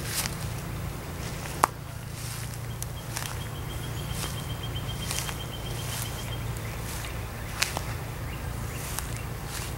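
A few sharp, irregular knocks, the loudest about a second and a half in and again near the end, that fit a large woodpecker pecking at a tree trunk. A fast, even trill of high pips runs for about three seconds in the middle, over a steady low rumble.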